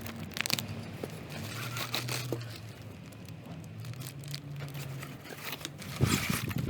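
Packaging being handled and unwrapped: crinkling and rustling with a few sharp clicks, over a faint low hum.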